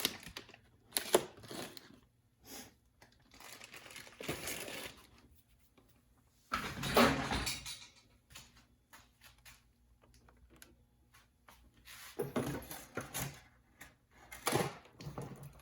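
Rummaging through small parts and packaging: intermittent rustling, crinkling and clattering, with a louder burst about seven seconds in.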